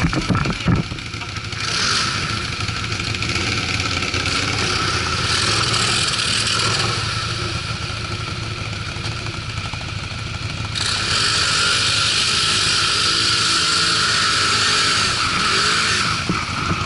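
ATV engine running while riding, with a steady rushing noise over it that grows louder about two-thirds of the way through.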